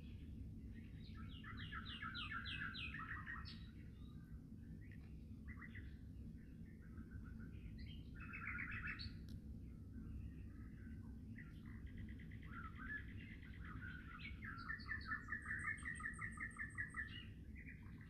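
Songbirds singing in woodland: several rapid trilled phrases of quickly repeated notes, loudest near the end. A low steady rumble runs underneath.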